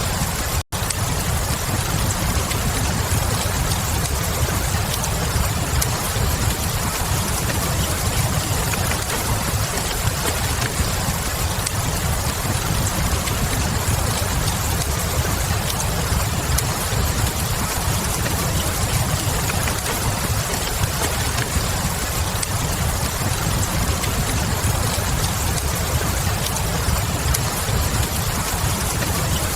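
Mixed fireplace-and-rain ambience: steady rain with a deep low rumble and faint scattered crackles of a wood fire. The sound drops out for an instant just under a second in.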